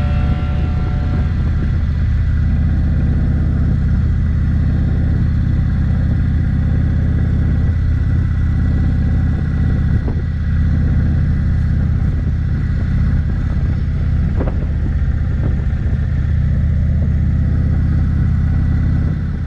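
Indian Springfield's V-twin engine running steadily at cruising speed, heard from the rider's seat with road and wind noise over it.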